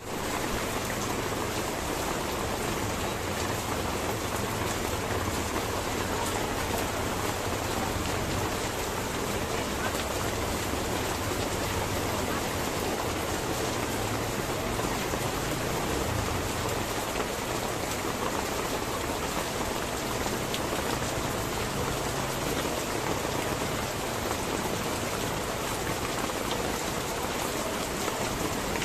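Heavy rain pouring steadily, pattering on tarpaulin awnings and splashing into puddles on the wet ground.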